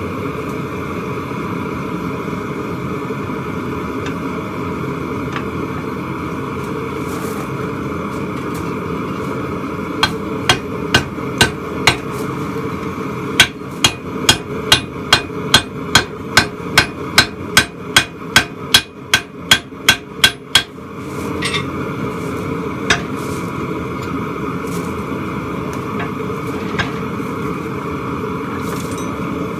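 Hand hammer forging a hot steel spike on an anvil: about five ringing blows around ten seconds in, then a steady run of about eighteen blows at roughly two and a half a second, then a few scattered taps. A steady rushing noise runs underneath.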